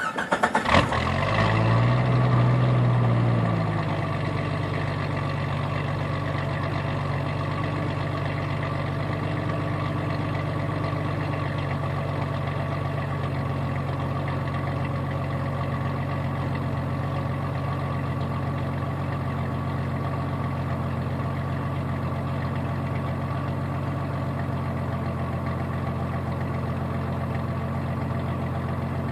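A 1992 Jeep Cherokee's 4.0-litre inline-six starting through a 2.5-inch exhaust with a Thrush Turbo muffler. The starter cranks briefly, the engine catches, and its speed flares up for a couple of seconds before settling into a steady idle.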